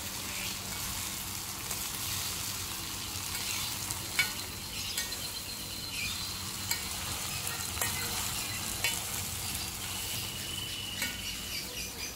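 Eggplant stir-frying in a steel wok, sizzling steadily while it is stirred with a wooden spatula that clicks sharply against the pan a few times.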